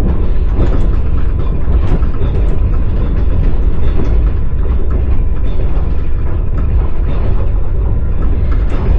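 Passenger train wheels clattering on the rails, heard from inside a carriage: irregular sharp clicks over a loud, steady low rumble.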